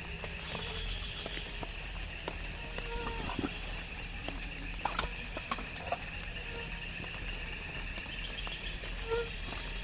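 A steady chorus of forest insects with high, unbroken tones, over scattered small clicks and knocks, the sharpest about five seconds in.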